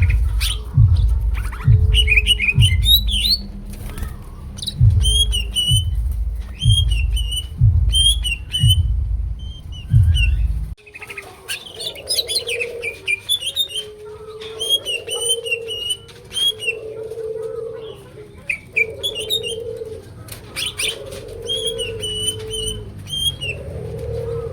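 Cucak ijo (green leafbird) singing in quick, high chirping phrases. Under the first half runs a deep pulsing thump, about one and a half a second, which stops abruptly about 11 s in. From there a lower repeated call sounds beneath the song.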